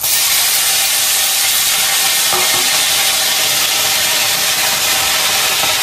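Food hitting hot oil in a wok and frying with a loud, steady sizzle that starts suddenly.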